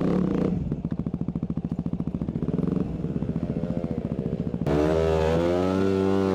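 Dirt bike engine ticking over at low revs with an even pulsing beat, then, after a sudden change about four and a half seconds in, running with its pitch rising and falling as the throttle is worked.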